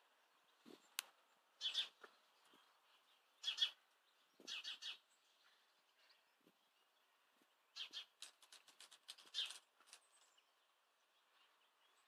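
Garden birds chirping: short, sharp calls every second or two, some in quick runs of two or three, with a rapid series of clicking notes about eight seconds in. A single sharp click comes about a second in.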